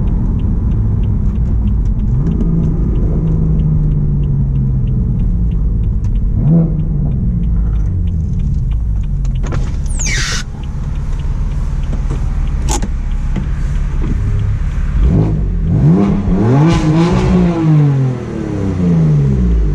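BMW M4's twin-turbo straight-six running through an Akrapovic full-system exhaust while driving, its note rising and falling with the revs, with several quick climbs and drops near the end. About halfway there is a short high falling whistle, and a sharp click follows a few seconds later.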